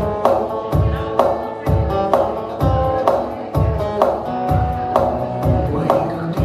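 Acoustic guitar playing an instrumental passage over a steady beat of low kick-like thumps and sharp snare-like hits, about two a second.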